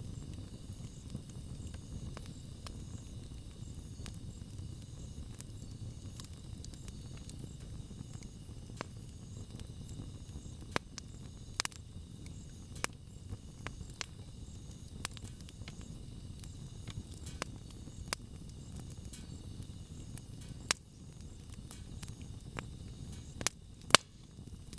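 Wood bonfire crackling: irregular sharp snaps and pops over a low, steady rumble of the burning fire, with a few louder pops around the middle and near the end.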